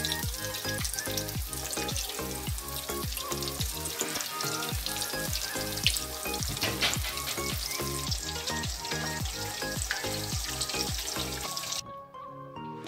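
Bread slices spread with a potato mixture sizzling as they shallow-fry in hot oil, under background music with a steady beat. The sizzle cuts off near the end, leaving the music.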